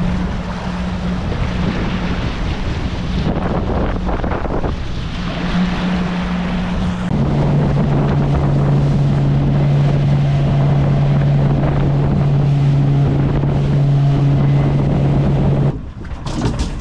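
Small boat's motor running under way, with wind buffeting the microphone and the rush and slap of water against the hull. About seven seconds in the engine note drops lower and grows louder and steadier, and the sound stops suddenly near the end.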